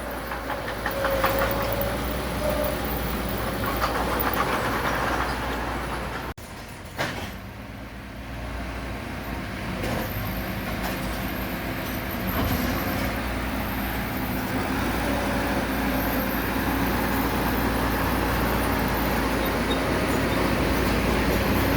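Heavy diesel construction machinery running steadily, a low engine drone with some metallic clanking. The sound drops out briefly about six seconds in, then carries on.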